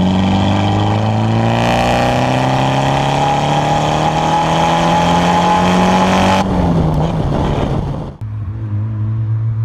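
Four-cylinder car engine pulling hard under load, its note climbing steadily. About six and a half seconds in it lets off and the pitch falls. Just past eight seconds it switches abruptly to a lower engine note that starts climbing again.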